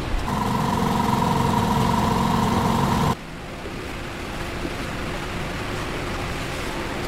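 A machine running with a steady hum that cuts off suddenly about three seconds in, leaving a quieter steady background noise.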